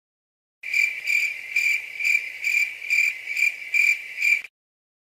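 Crickets sound effect: a cricket chirping steadily, about two chirps a second, starting just under a second in and cutting off sharply near the end.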